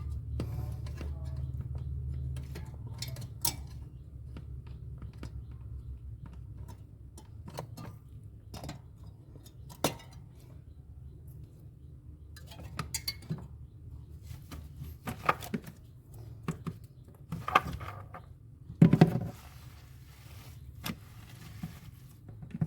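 Scattered clicks, taps and light metallic clatter of tools and parts being handled during refrigerator repair work, with a louder clatter about 19 seconds in. A low hum fades out after the first few seconds.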